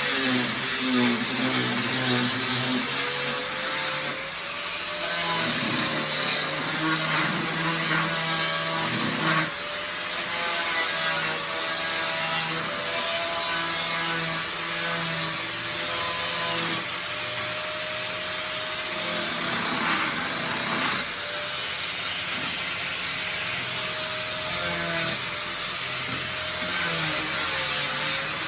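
A power saw running and cutting continuously, its motor pitch wavering as the load changes.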